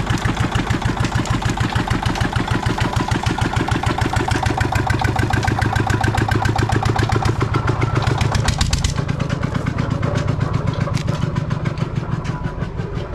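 Old desi diesel engine running a sugarcane crusher, with a fast, even firing beat. About nine seconds in the sound thins and drops, and the beat becomes less regular.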